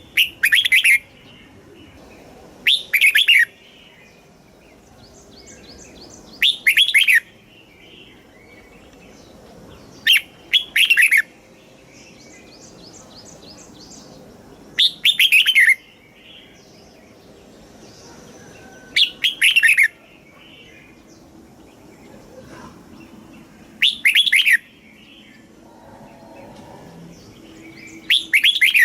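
Red-whiskered bulbul singing its short, loud song phrase eight times, about every four seconds, with quieter chirps in the gaps.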